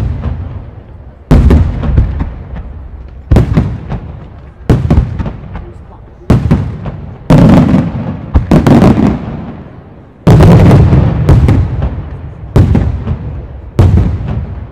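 Aerial firework shells bursting one after another, about ten loud booms a second or so apart. Each boom is followed by a low rumbling echo that dies away before the next.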